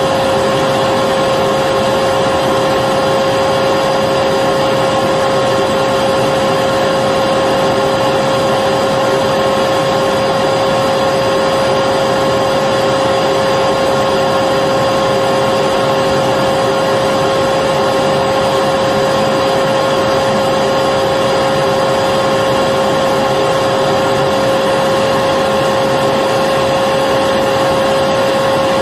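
Electric vacuum cleaner running steadily: a constant motor whine over a rush of air.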